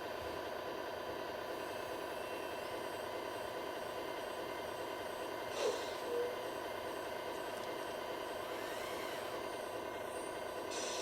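Radio-controlled model construction vehicles running: a steady whine with many overtones. A short click with a brief tone comes a little over halfway through.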